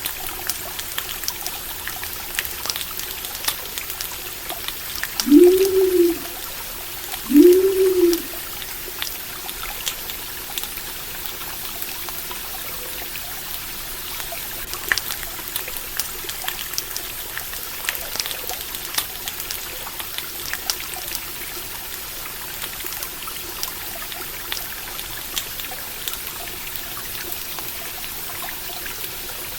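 Stream water running and trickling steadily, with a campfire crackling in scattered small pops. A few seconds in, a low call that rises and then falls in pitch is heard twice in quick succession, louder than the rest.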